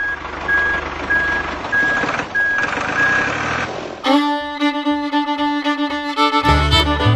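A steady mechanical whirring noise with a short high beep repeating evenly, like a vehicle's reversing alarm, for about four seconds. It then cuts to fiddle music with a bluegrass feel.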